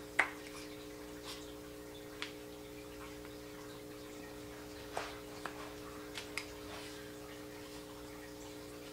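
Scattered light wooden clicks and taps as the top bar and side bars of a beehive frame are handled and fitted together, the sharpest right at the start, over a steady background hum.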